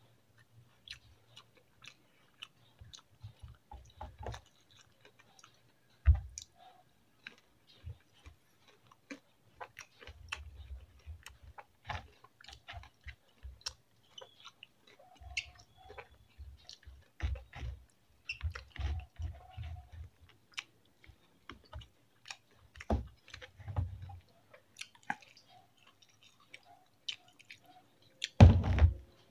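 Close-up chewing of a person eating fried chicken and rice by hand, with scattered small clicks and wet mouth noises coming and going. There is a louder knock near the end.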